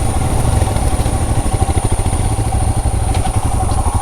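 Royal Enfield Himalayan's 411 cc single-cylinder engine running at a low, steady pace as the motorcycle is ridden along an off-road track, its exhaust pulses even and unbroken.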